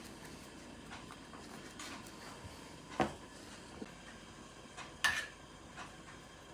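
Household objects being handled: two sharp knocks, about three and five seconds in, among faint clicks over a low steady background.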